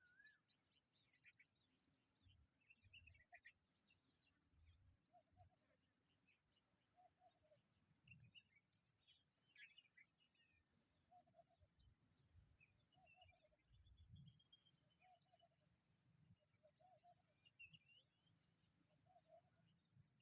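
Faint natural ambience: a steady high insect buzz, scattered short bird chirps, and a lower call repeated every second or two.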